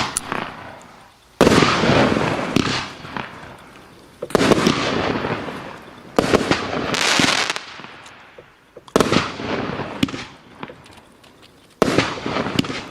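King Of Colour firework going off: five loud bursts about two to three seconds apart, each fading away over a couple of seconds, with a few sharp pops in between.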